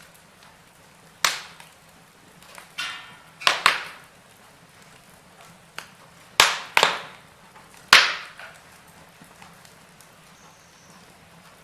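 Logs burning in a fireplace, crackling with several sharp pops, a couple of them in quick pairs, each dying away within a fraction of a second, over a faint steady background. The last pop comes about two-thirds of the way through.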